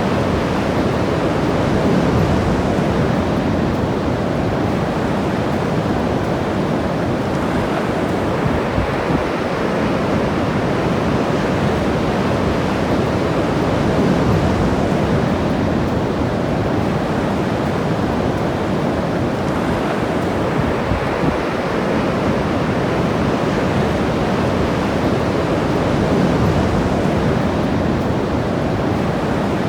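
Ocean surf washing onto the shore in a steady rush, swelling slightly every few seconds, with some wind on the microphone.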